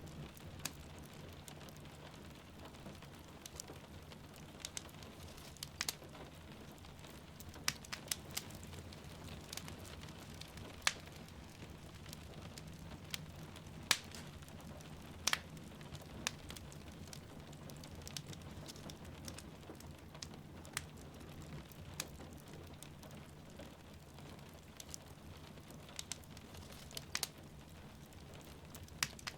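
A wood fire crackling in a fireplace, irregular sharp pops and snaps over a steady low rush, with rain falling in the background.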